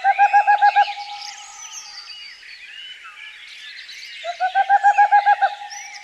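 Wild birds singing together, with one bird giving two loud bursts of rapid low notes, about ten in under a second, at the start and again about four seconds in, over many higher chirps and twitters.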